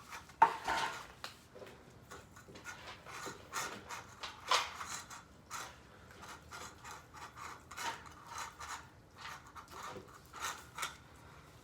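Cat food being dished out into bowls: irregular clinks, taps and knocks of dishes and utensils, the sharpest knock about half a second in.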